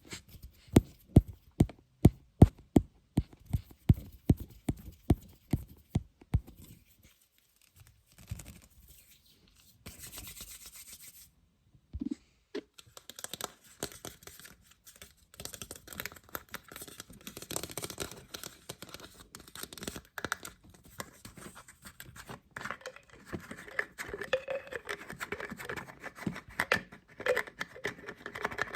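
A lid being tapped, a steady run of sharp taps at about three a second, stopping after about six seconds. After a short pause, a continuous scratching and rubbing on the lid takes over for the rest of the time.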